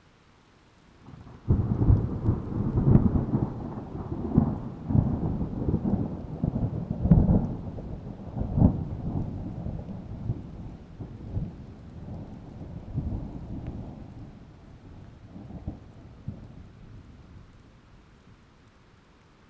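Thunder: a sudden clap about a second and a half in, followed by rolling cracks and rumbles that slowly fade out over the next fifteen seconds, over a faint hiss of rain.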